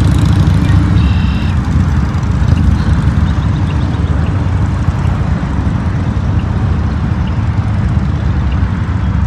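Motorcycle riding at road speed: a steady engine rumble with wind and road noise over it. A brief high-pitched beep sounds about a second in.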